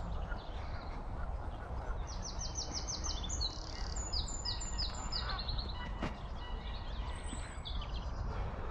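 A small songbird singing: a quick run of repeated high notes about two seconds in, then further chirped phrases, over a steady low rumble. A single soft knock comes about six seconds in.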